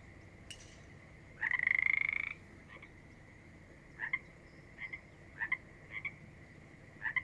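Frogs calling: one buzzy, pulsing call about a second long, then several short chirps spaced out over the rest.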